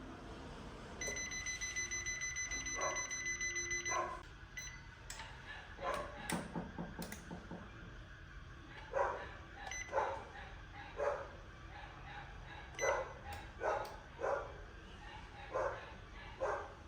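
A dog barking repeatedly in short, irregularly spaced barks. In the first few seconds a high electronic beep tone pulses rapidly for about three seconds.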